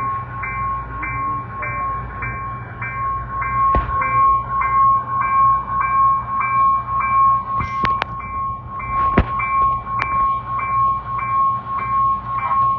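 A railroad bell ringing, struck about twice a second with a steady ringing tone between strokes, over the low rumble of a train. A few sharp clanks come in around the middle.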